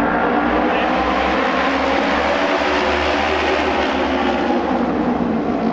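Auto race motorcycles' engines running at speed on the oval track, a steady loud engine noise that swells around the middle as the pack goes by.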